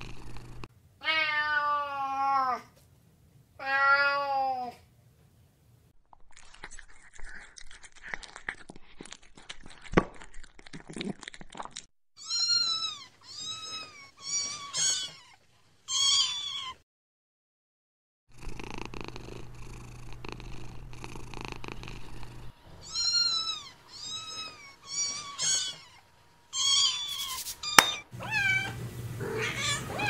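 Domestic cats meowing: two long, wavering meows near the start, then, after a stretch of soft rustling and clicks, runs of short, high-pitched mews several close together, and a sharp click near the end.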